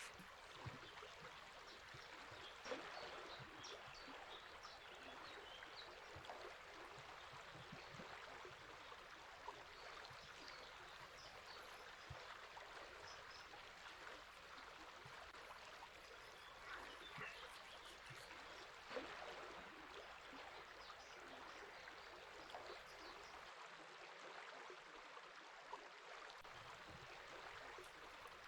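River water flowing steadily and faintly, with scattered short bird chirps above it and a few brief louder splashes or knocks.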